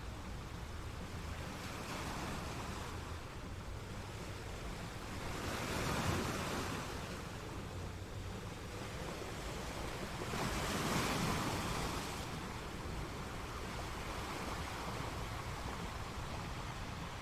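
Ocean surf with a steady rushing wash. Two waves swell louder, about six seconds in and again about eleven seconds in.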